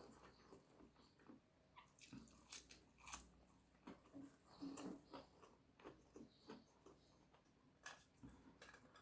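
Faint, close-miked chewing and mouth sounds of a person eating, with irregular soft wet smacks and clicks.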